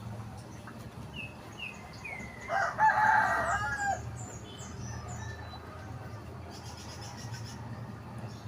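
A rooster crows once near the middle, a loud call of about a second and a half that drops in pitch at the end, with small birds chirping briefly around it.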